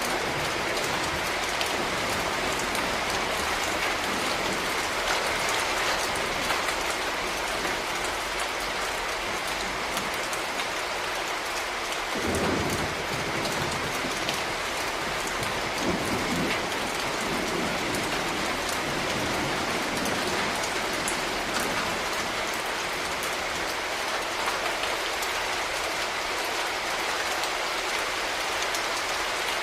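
Steady rain falling on a surface, an even hiss of many drops, with two brief low rumbles about twelve and sixteen seconds in.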